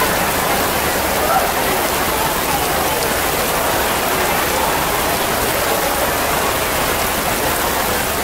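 Heavy storm rain pouring down steadily, heard from under a tent.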